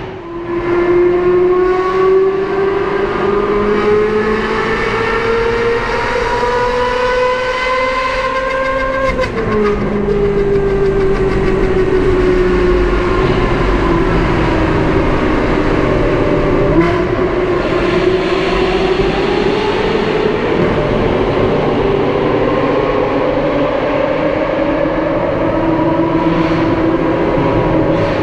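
Lamborghini Aventador SVJ Roadster's V12 engine pulling under way. The revs climb for about nine seconds and drop sharply at an upshift, sag for a few seconds, then climb steadily again.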